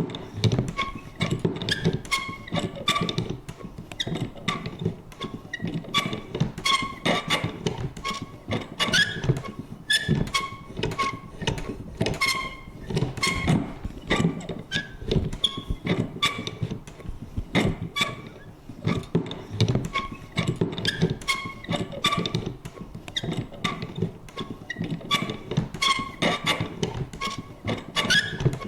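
Vintage paper punch worked over and over: a repeating, irregular run of clicks and knocks, several a second, mixed with short, high creaks.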